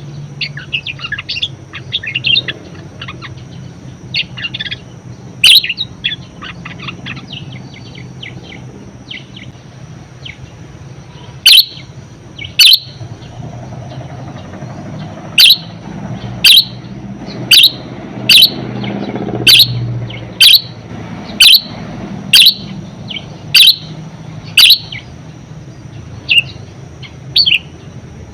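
Budgerigar chattering in a fast warble, then giving a run of loud, sharp chirps about one a second, with a couple of fainter ones near the end.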